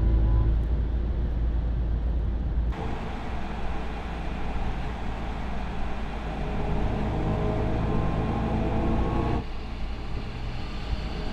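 Mercedes-AMG EQS 53 electric car driving: a steady low rumble with a faint whining tone that rises in pitch as it picks up speed about two-thirds of the way in. The sound changes abruptly twice, as if cut between shots.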